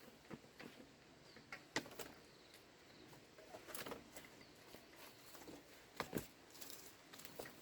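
Faint, scattered clicks and light knocks of bamboo being handled and fitted, the loudest about two seconds in and again about six seconds in.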